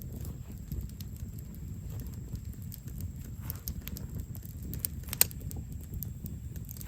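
Wood campfire crackling: irregular sharp pops and snaps over a low steady rumble, with one loud pop about five seconds in.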